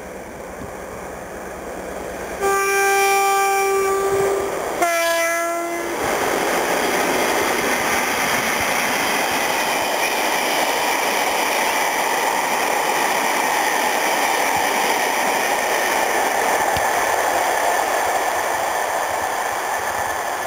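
Class 60 diesel locomotive sounding its two-tone horn, a higher note held about two seconds and then a shorter lower note. It is followed by the steady rush of the locomotive and its rake of oil tank wagons running past.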